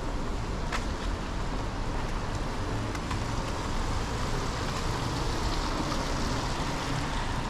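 Busy street ambience: a steady hiss of road traffic and wet-sounding noise, with a sharp click under a second in.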